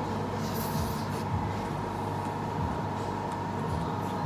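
A person chewing a mouthful of chicken and rice eaten by hand, with a few faint smacking sounds about half a second to a second in. A steady low hum with a thin steady tone runs underneath and is the loudest thing.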